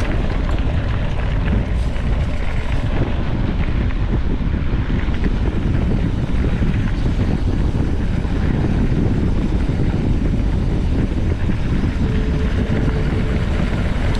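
Steady, loud wind noise buffeting the microphone of a mountain bike riding at speed.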